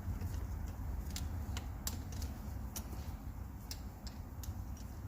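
Light, irregular clicks and taps of small metal parts being handled as cam-cap bolts are fitted into a diesel cylinder head, over a low steady hum.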